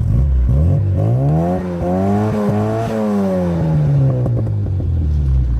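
Car engine revving: the pitch climbs over the first three seconds or so, then falls slowly back down.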